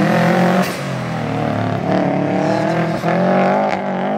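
A sprint rally car's engine revving hard, its note stepping down and climbing again a few times as it changes gear.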